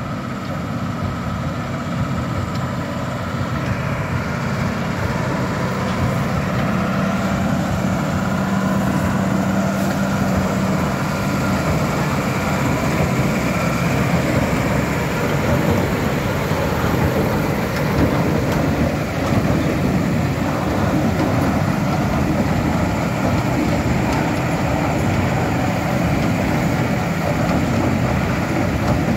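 KRONE high-density baler running behind its tractor, a steady heavy machinery noise of engine and baler mechanism. A steady hum stands out for a few seconds early on.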